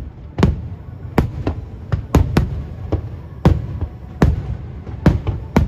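Aerial fireworks shells bursting: about a dozen sharp bangs at uneven intervals, some in quick pairs, over a continuous low rumble of booms and echoes.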